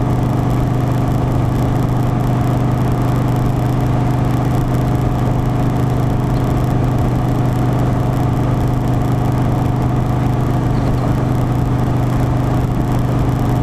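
Harley-Davidson Softail Standard's V-twin engine running at a steady cruising speed, with road and wind noise; the pitch holds constant throughout.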